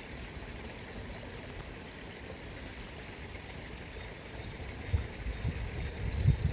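Steady rushing of a flowing stream, with irregular low rumbling coming in about five seconds in.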